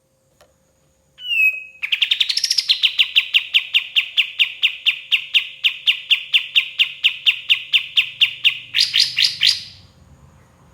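Kapas tembak songbird singing: a short down-slurred whistle, then a long, rapid string of sharp repeated notes at about four a second, closing with a few louder, higher notes before it stops.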